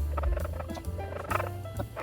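Cloth rubbing the rims of glass canning jars, giving a few short squeaks of cloth on glass as each rim is wiped clean with vinegar.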